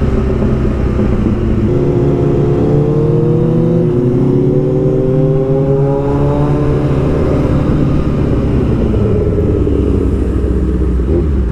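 Motorcycle engine running under way with wind rush, heard from the rider's own bike, most likely a Kawasaki Z900 inline-four. Its pitch rises over a few seconds, holds, then falls away as the throttle comes off.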